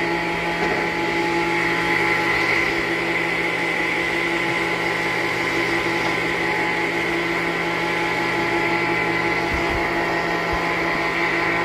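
Circular saw in a sawmill running steadily, a constant whine and hum with no change in pitch or level.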